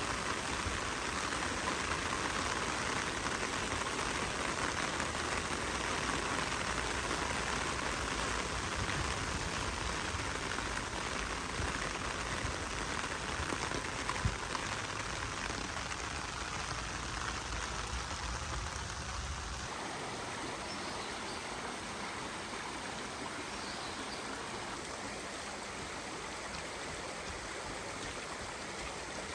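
Steady hiss of rain falling, mixed with running water. The deep rumble underneath drops away abruptly about two-thirds of the way through.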